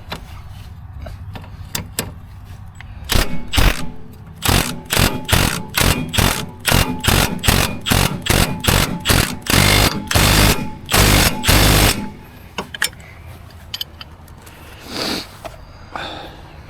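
Impact wrench running in many short bursts, then three longer runs near the end, driving bolts during a brake caliper job.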